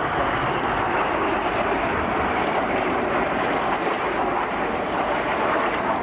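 BAE Hawk T1 jets flying a display overhead, a loud, steady jet noise that holds without change.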